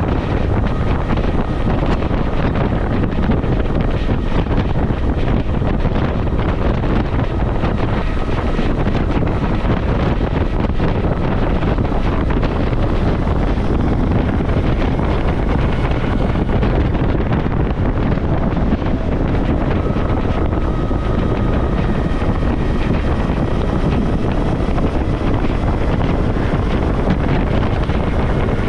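Steady wind rush buffeting the microphone on a moving Suzuki V-Strom motorcycle, with the bike's engine and road noise running underneath.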